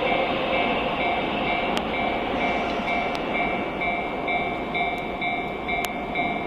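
A JR 185 series electric train running, a steady rumble and rush of noise with a few sharp clicks. Over it a high electronic beeping tone repeats about twice a second.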